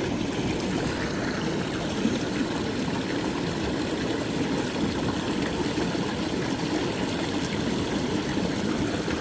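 Shallow creek water running steadily over rocks, an even, unbroken rushing.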